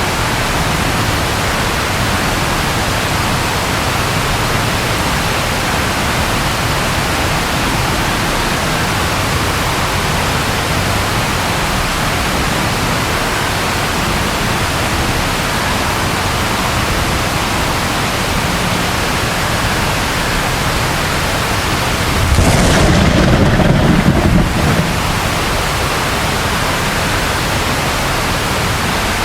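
Steady, even rain noise with a single low thunder rumble about three-quarters of the way through, lasting two to three seconds before it cuts off.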